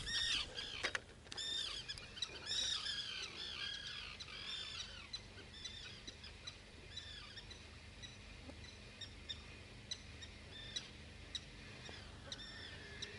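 Songbird calls: a quick run of short, arching chirps, dense for the first few seconds and thinning out after, with a few sharp ticks later on.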